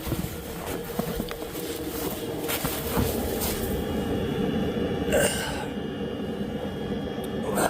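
Pickup truck engine idling steadily, with scattered knocks and a brief louder burst of noise about five seconds in.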